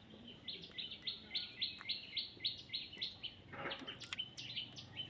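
Baby parrot chirping: a rapid run of short, high chirps, about three or four a second, with a brief rougher call about three and a half seconds in.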